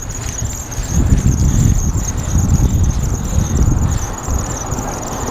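Heavy, uneven rumble of wind and trail vibration on the microphone of a mountain bike ride, swelling about a second in, with a steady high-pitched squeal over it.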